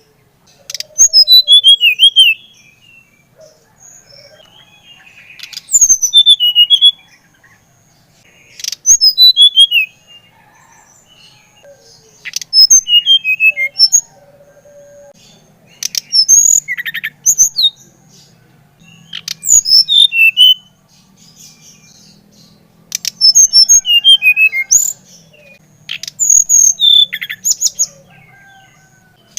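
An SRDC songbird singing: about eight loud phrases of quick, high, mostly falling whistles and chips, each one to two seconds long with short pauses between them. This is the bird in full song ('gacor').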